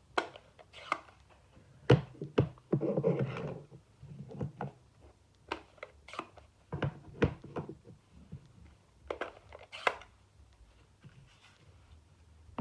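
Plastic ink pad cases being handled and opened: a series of sharp clicks and knocks, with a short rustle about three seconds in.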